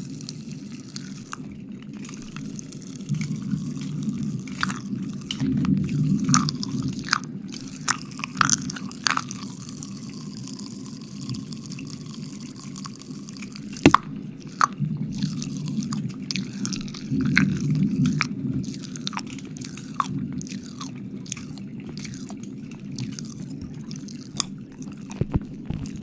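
Close-miked wet mouth sounds, licking and lip smacking, with many short wet clicks over a steady low rumble. One sharp, louder click about fourteen seconds in.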